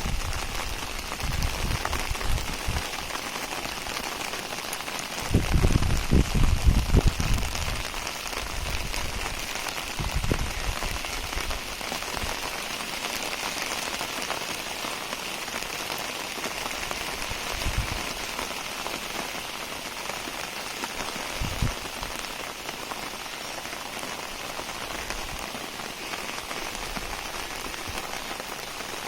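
Heavy rain falling steadily, an even hiss of drops, broken a few times by low rumbling bumps, the longest about five to seven seconds in.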